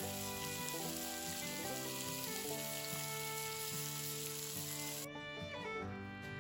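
Food sizzling as it fries over a campfire, a dense high hiss that cuts off suddenly about five seconds in, over background music.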